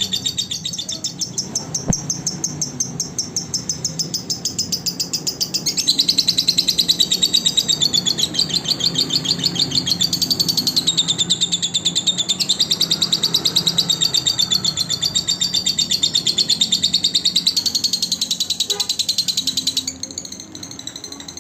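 Lovebird singing a long, fast chattering trill of high, evenly repeated chirps. It gets louder about six seconds in and eases briefly near the end.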